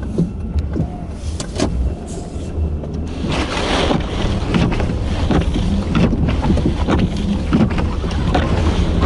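Blizzard wind buffeting the microphone, a heavy rumble with hissing gusts, growing stronger about three seconds in.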